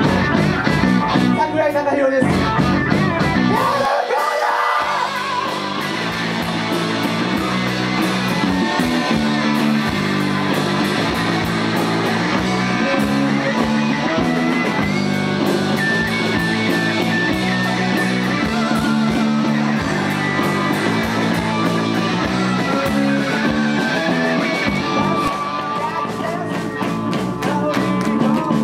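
Live rock band playing: electric guitar, bass and drums with a singing voice, the bass dropping out briefly about four seconds in.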